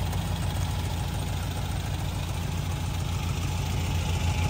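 1960 MGA's 1600cc four-cylinder engine idling steadily, with an even low pulse.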